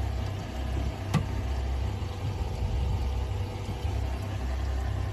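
Boat engine idling in neutral, a steady low rumble. A single sharp click about a second in.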